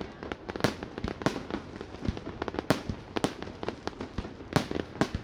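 Fireworks bursting in quick, irregular succession: about half a dozen loud sharp bangs among many smaller pops.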